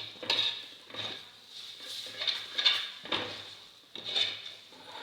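A spoon scraping around a pan, stirring a thick spice masala as it fries, in irregular strokes about half a second to a second apart over a faint sizzle.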